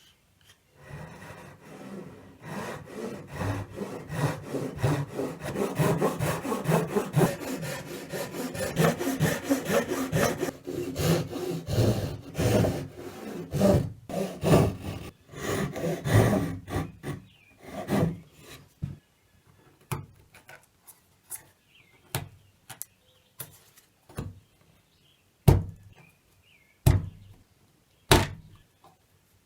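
Handsaw cutting notches into a wooden 1x2, a steady run of quick back-and-forth strokes that stops about two-thirds of the way through. Then comes a series of separate sharp knocks, the loudest ones near the end.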